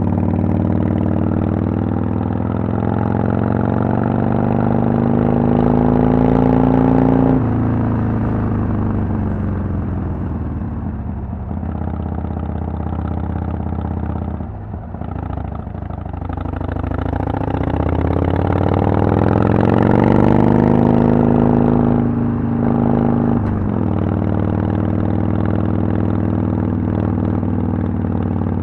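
2010 Harley-Davidson Sportster XL883L's air-cooled V-twin running through Vance & Hines Twin Slash pipes while being ridden. The revs climb, drop sharply at a gear change about seven seconds in, and fall away for several seconds. They climb again and drop sharply at another shift about two-thirds of the way through, then run steadily.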